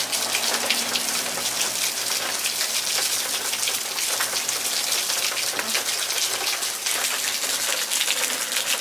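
Heavy rain falling in a steady downpour: a dense, even hiss of countless drops hitting hard surfaces.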